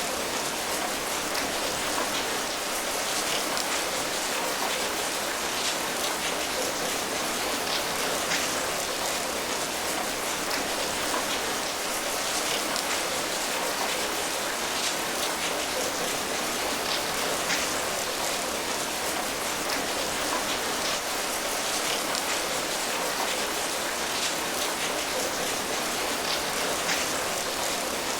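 Steady rain falling, a constant hiss with scattered individual drops pattering on a surface.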